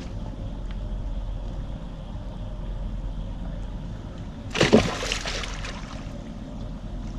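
A released flathead catfish splashing back into the water once, about four and a half seconds in, over a steady low rumble.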